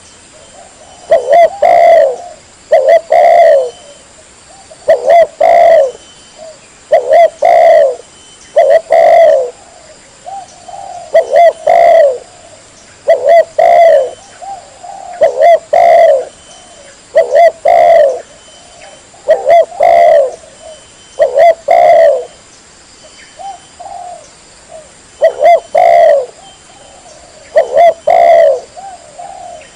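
Spotted dove (tekukur) cooing, loud and clear, in short repeated phrases of a few coos about every two seconds. It is a lure call meant to attract wild spotted doves.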